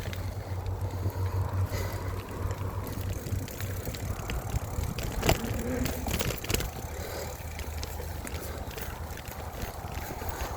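Mountain bike riding on a dirt trail, heard from a handlebar-mounted phone: a steady low rumble of tyres and wind on the microphone, with scattered clicks and rattles from the bike going over bumps and one sharper knock about five seconds in.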